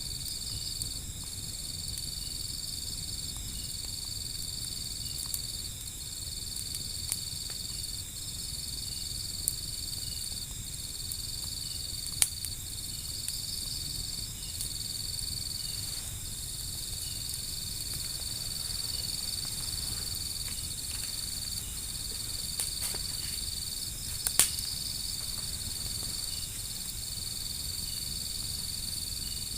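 Wood fire burning, giving a low steady rumble and a few sharp crackling pops. Over it insects trill steadily at a high pitch, the trill breaking off briefly every second or two.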